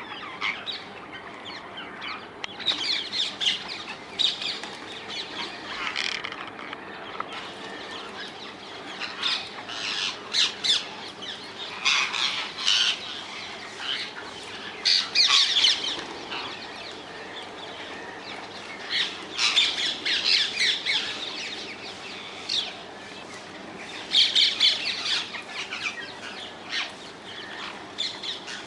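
A flock of rose-ringed parakeets (Indian ringnecks) squawking: bursts of harsh, shrill screeches come in clusters every few seconds.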